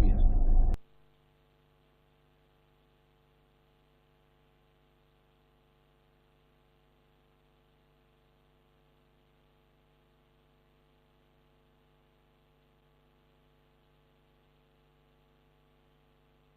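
Loud clip audio cuts off abruptly less than a second in, leaving near silence with only a faint, steady electrical hum.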